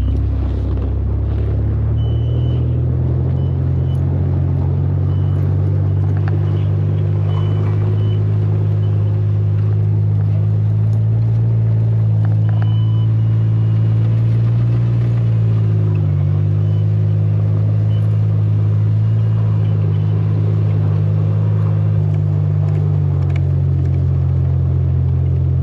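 Tow vehicle's engine running at low, steady revs while it slowly pulls a stuck car up a snowy hill on a bridle, with a brief dip in pitch about sixteen seconds in.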